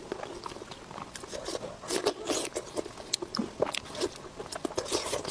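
A person eating close to the microphone: irregular bites, wet chewing smacks and crunches.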